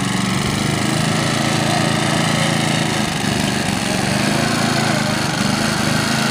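Ariens lawn tractor's 8 hp Tecumseh engine running steadily under power, its note wavering briefly about three seconds in.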